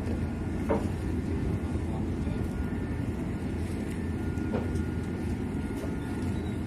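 Steady low engine rumble, with a faint steady high whine and two brief sounds about a second in and near the middle.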